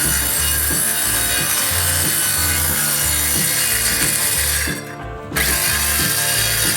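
A saw cutting through a wooden board with a steady rasp. It breaks off briefly about five seconds in, then cuts again.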